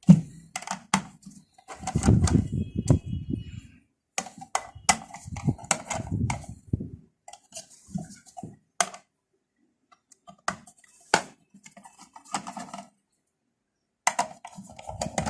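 Irregular clicks, knocks and rattles of a metal desktop computer power supply casing being handled and taken apart, with bouts of rubbing and scraping between the clicks.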